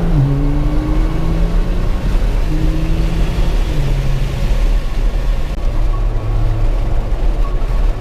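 Car on the move, a steady loud low rumble of engine and road noise, with a low engine hum that holds and shifts pitch a few times.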